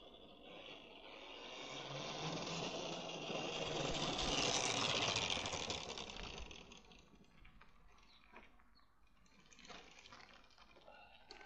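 Home-built electric motorbike, a car alternator run as its motor, passing by: its whine and tyre noise build to a peak about four to five seconds in, then fade away.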